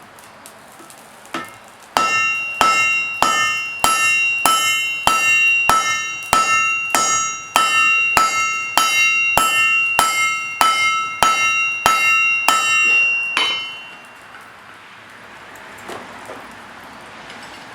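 Hand hammer striking metal on an anvil in a steady rhythm, a little under two blows a second, about twenty blows in all. Each blow leaves a bright ring that carries over into the next. The hammering starts about two seconds in and stops near the end, followed by a few faint knocks.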